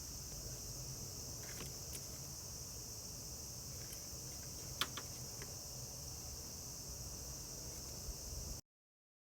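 Steady high-pitched insect chirring, like crickets, over a low hum, with a few light clicks about five seconds in; the sound cuts off abruptly near the end.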